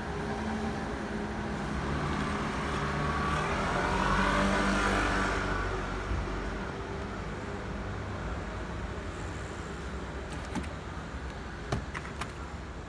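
A low engine rumble that swells to its loudest about four seconds in and then fades away, with a few sharp clicks near the end.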